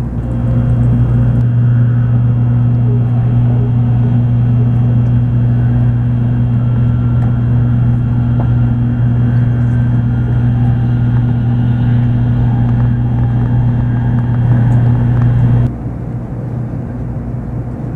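Steady running noise of a Shinkansen bullet train heard from inside the passenger car, a loud drone with a low hum. About three-quarters of the way through the hum cuts off suddenly, leaving a quieter rumble.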